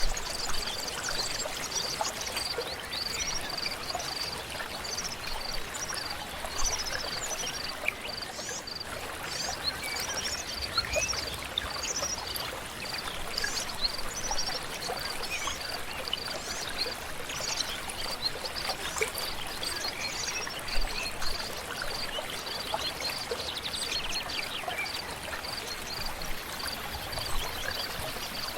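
A stream flows steadily while birds sing short chirps and quick whistled phrases over it. A high, even note pulses a few times a second throughout.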